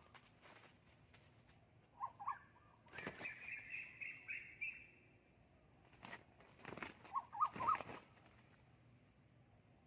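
Junglefowl rooster calling: two short clusters of wavering clucks, about two and seven seconds in, and a longer, higher-pitched call from about three seconds in. A few sharp rustles or wing flaps are mixed in.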